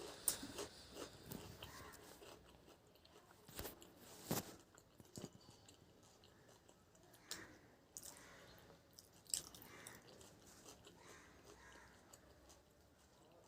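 Close-up eating sounds: chewing mouthfuls of rice and curry, with scattered soft clicks and crunches.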